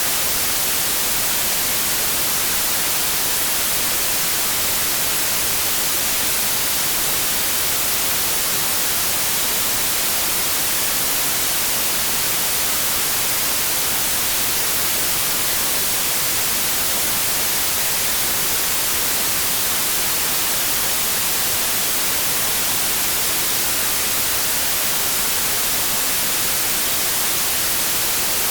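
Steady white noise: an even static hiss, unchanging throughout.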